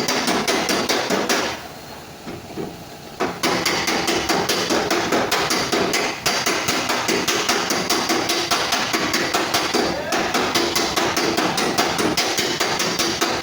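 Body hammer tapping out a steel car fender panel in rapid, even strikes with a metallic ring, pausing briefly about two seconds in.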